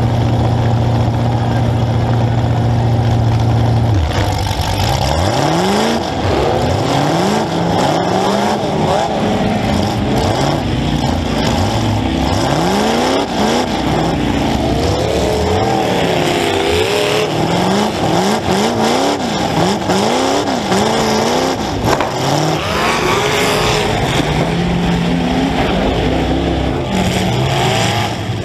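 Demolition derby car's engine, heard from on board. It holds a steady note for about four seconds, then is revved up and let fall again and again as the car accelerates and backs off.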